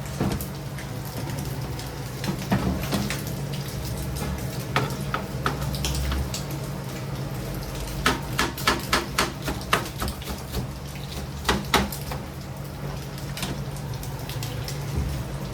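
Kitchen work: scattered clicks and clatter of utensils and dishes, with a quick run of knocks about eight seconds in, over a steady low hum of kitchen equipment.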